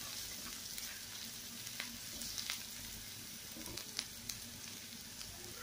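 Sliced onions, curry leaves and green chilli sizzling in hot coconut oil in a pan as they are sautéed: a steady frying hiss with a few small crackles here and there.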